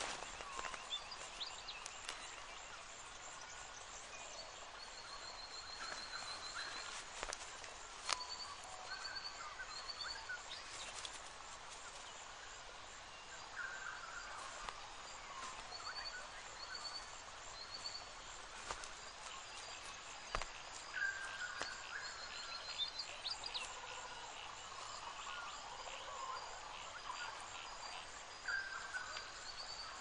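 Wild birds calling over a faint outdoor background: short, rapid, high trills repeated every few seconds, lower chirps, and now and then a sharp click or rustle.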